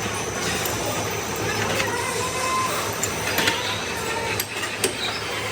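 Workshop machinery running steadily, with a few sharp metallic clicks in the second half.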